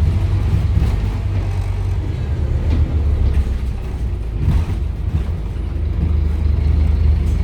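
Scania DC9 five-cylinder diesel engine of a Scania OmniCity double-decker bus running under way, a steady low engine drone with road noise.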